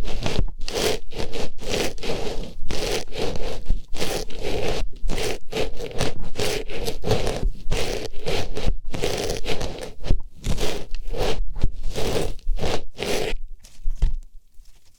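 Artificial flower pushed and scraped into an ear for ASMR, in quick rustling, scratchy strokes, several a second, close up on the microphone. The strokes stop about a second before the end.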